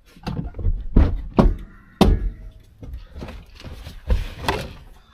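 Several thumps and knocks, the loudest about a second and two seconds in, with rustling and scraping between them, as a crumbling old headliner board is wrestled loose inside a pickup truck cab.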